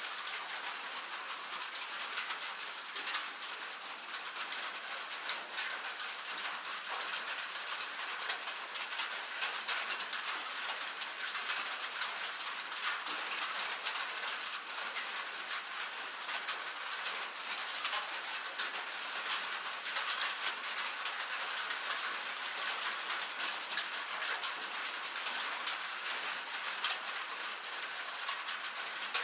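Steady rain drumming on a metal roof: a dense, even patter of many small drop impacts.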